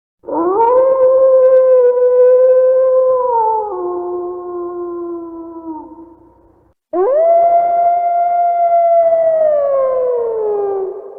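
Wolf howling: two long howls. The first swoops up, holds, then drops to a lower held note before fading. The second swoops up to a higher note, holds, and slides down near the end.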